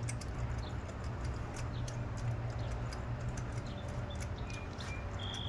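Irregular light metallic clicks and ticks of a socket and extension being turned by hand to back out a spark plug, over a steady low background hum.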